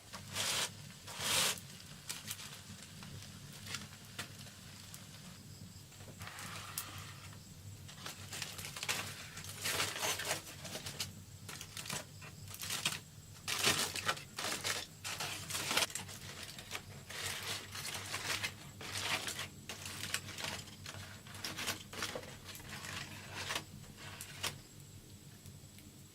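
Irregular rustling and crinkling noises, coming one after another in short and longer strokes, over a faint steady low hum.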